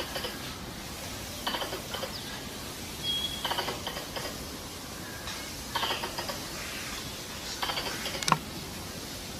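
Squirrel mating-season call used as a lure: short bursts of rapid clicking chatter, about five of them, repeated every couple of seconds, one of them opened by a brief high whistle.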